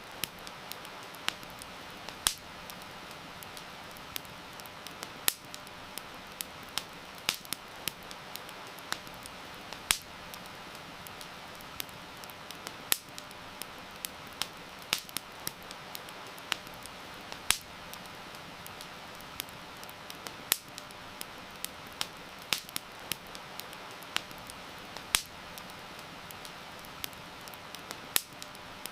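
Crackling campfire: irregular sharp pops and snaps, a few a second, some much louder than the rest, over a steady hiss of heavy rain.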